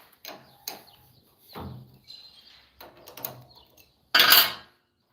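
Workshop handling noises: a series of scattered knocks and scrapes, then a loud half-second rushing burst about four seconds in that cuts off suddenly.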